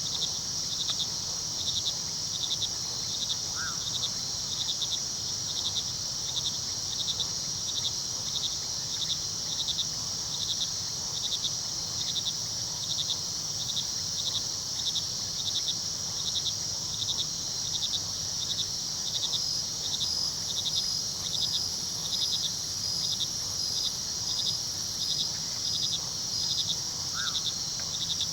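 Night crickets chirping: a steady high trill with rhythmic chirps on top, about one and a half a second, over the low, even rush of a river.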